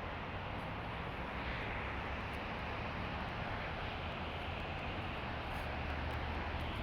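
Steady rushing of river water and a waterfall, an even hiss over a low rumble.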